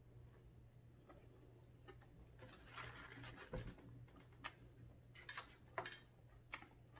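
Near silence with faint scattered clicks and ticks over a low steady hum.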